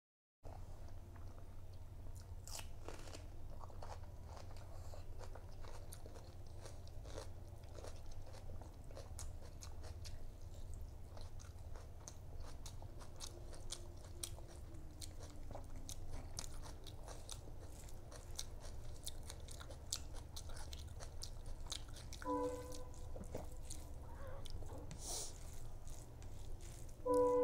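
Close-miked chewing and wet mouth clicks of someone eating rice and fish curry by hand, over a steady low hum. A short pitched hum sounds twice near the end, the second the loudest thing heard.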